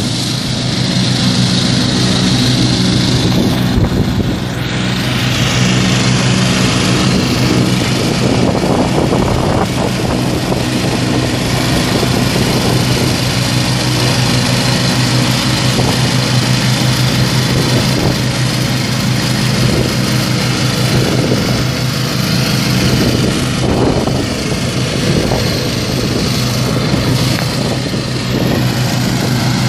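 Small tractor engine running steadily at a constant speed, with a dense mechanical clatter over it.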